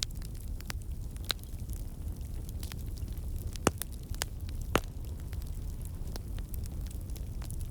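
Wood fire burning in a fireplace: a steady low rumble of flames with irregular sharp crackles and pops, two louder pops near the middle.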